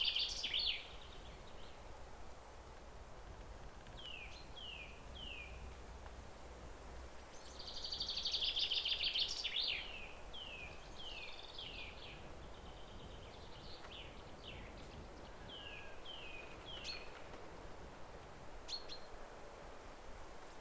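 Songbirds singing: a long, rapid trilled phrase at the very start and again about eight seconds in, with groups of short, high, downward-sliding chirps in between, over a faint steady outdoor hiss.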